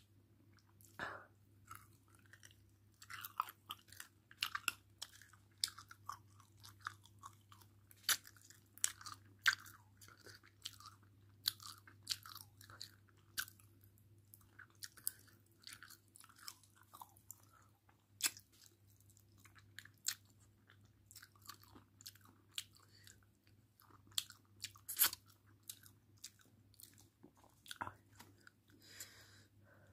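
Someone eating rice and curry close to the microphone: irregular wet chewing and smacking clicks, over a steady low hum.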